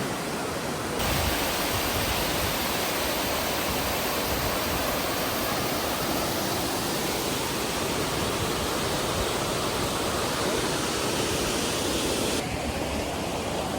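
Steady rush of flowing water, a little louder from about a second in until near the end.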